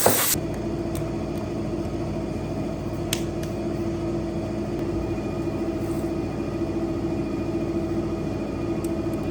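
A loud hiss cuts off just after the start, leaving a steady machine hum with a few faint clicks.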